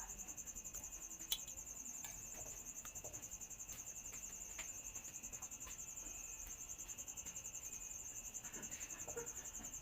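Faint, steady high-pitched trilling of crickets, with one sharp click about a second in.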